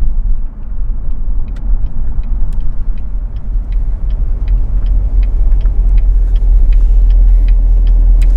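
Steady low engine and road rumble inside the cabin of a manual sports car being driven, growing a little louder late on, with a light, regular ticking about three times a second.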